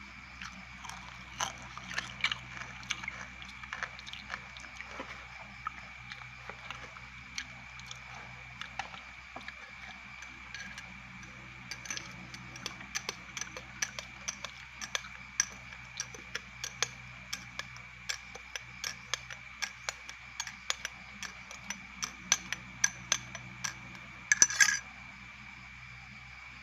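Close-up crunching and chewing of crispy fried grasshoppers: irregular sharp crackles, coming more often in the second half, with a louder burst near the end. A steady faint high whine runs underneath.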